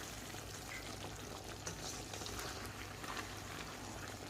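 Chicken and tomato masala cooking in a karahi, bubbling and sizzling softly and steadily with small scattered pops as the tomatoes cook down.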